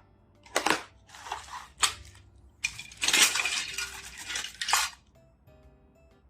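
Small plastic toy kitchen pieces being handled, clattering and rustling in several bursts, the longest near the middle, stopping about five seconds in. Soft background music plays underneath.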